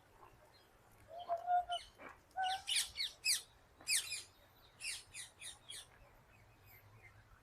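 Small birds chirping: a quick series of sharp, high chirps that each sweep downward in pitch, bunched between about two and six seconds in.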